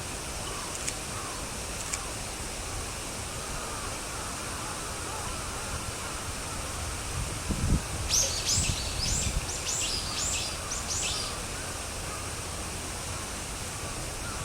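A small songbird singing one short phrase of about seven quick, high, down-slurred notes about eight seconds in. Faint steady outdoor background noise runs under it.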